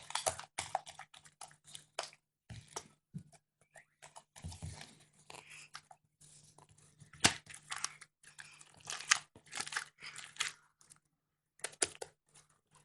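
Slime being squeezed, stretched and poked in the hands, giving off irregular wet crackles and small pops.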